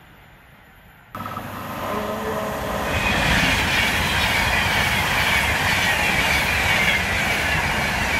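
Class 390 Pendolino electric train passing through at speed. The sound jumps up suddenly about a second in and builds to a loud rush of wheels on rail and air, with a high whine slowly falling in pitch, then eases off near the end as the train recedes.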